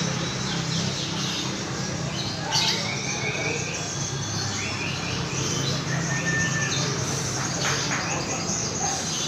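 Songbirds singing at a bird-song contest: short whistled notes, quick chirps and trills scattered through, with a couple of sharp harsh calls, over a steady low hum and background murmur.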